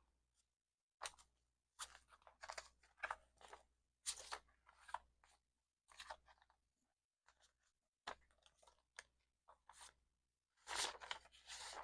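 Faint rustling and crinkling of paper banknotes and cash envelopes being handled and flipped through, in short irregular bursts.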